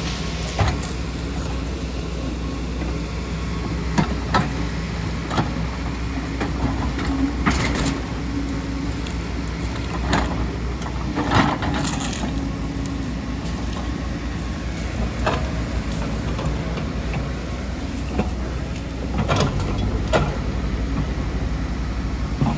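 Excavator's diesel engine running steadily under work. Irregular knocks and scrapes of the bucket and rock are heard a dozen or so times over the engine.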